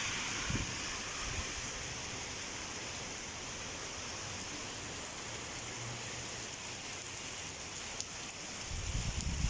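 Heavy rain falling in a steady hiss, with low rumbles near the end.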